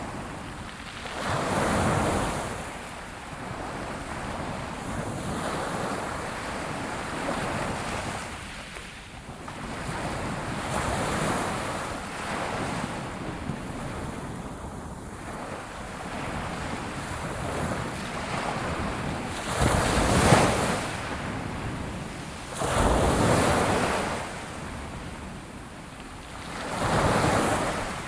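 Ocean waves washing onto a shore: a steady surf hiss with waves surging in every few seconds, the loudest break about two-thirds of the way through.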